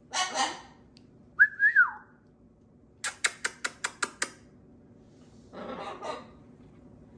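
Pet parrot sounds: a rough, noisy squawk, a short whistle that rises and then falls, and then a quick run of seven kissing smacks, about five a second. A second rough, noisy call follows near the end.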